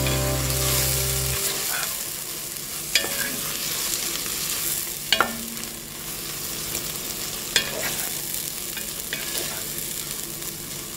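A wooden spoon stirring a chicken-and-vegetable filling as it sizzles in a pot, with a few sharp knocks of the spoon against the pot. Background music cuts off about a second in.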